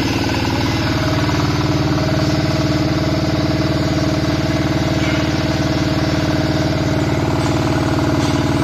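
Diesel engine of a QTJ4-40 hydraulic interlocking block machine running steadily at a constant speed, with a rapid even pulse.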